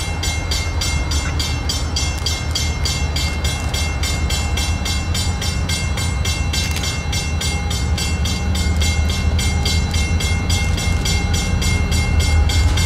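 Empty freight grain train rolling by close at hand: a steady low rumble with an even clicking of about four clicks a second, growing slightly louder toward the end.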